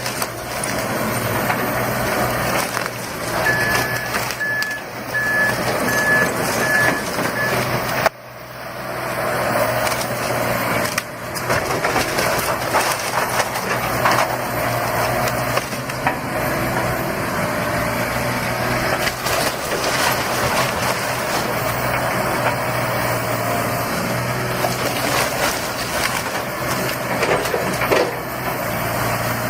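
Heavy machinery running steadily under constant crunching and knocking of demolition debris being crushed and broken. A reversing alarm beeps about twice a second for a few seconds near the start, and the sound cuts abruptly about eight seconds in before the machinery and crunching resume.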